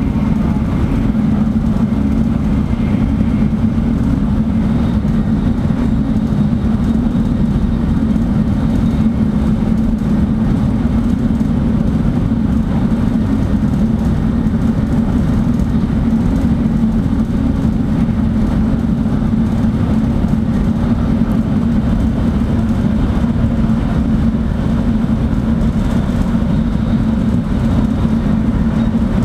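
Shinkansen bullet train running at speed, heard from inside the passenger cabin: a loud, steady low rumble with a constant hum, unchanging throughout.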